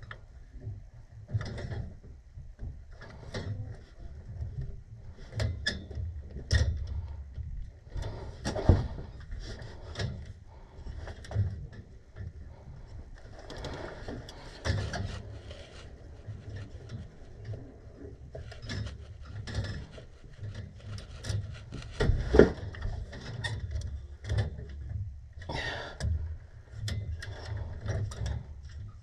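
Irregular clicks, knocks and scraping of hand tools and metal parts being handled, with a sharp knock about 9 seconds in and the loudest knock about 22 seconds in.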